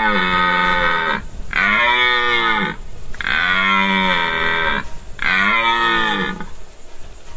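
Cattle mooing repeatedly: one long moo ends about a second in, then three more long moos follow in close succession, each rising and falling in pitch.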